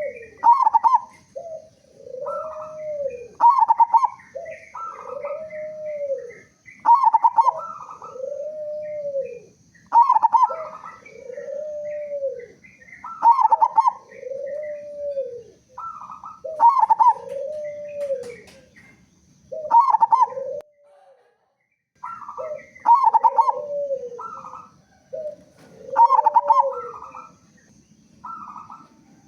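A local zebra dove (perkutut) with a big voice, cooing steadily. Each phrase is a few short clipped notes followed by a long arched coo that rises and falls, and the phrase repeats about every three seconds, with one brief pause about two-thirds of the way through.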